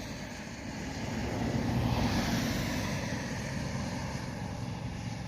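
Background road traffic: a steady rush of passing vehicles that swells about two seconds in and eases back.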